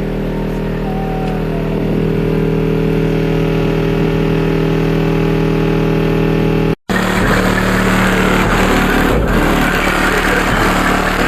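Competition car-audio subwoofers playing a loud, sustained bass tone with distortion. It breaks off for an instant about two-thirds of the way through, then comes back rougher and buzzier.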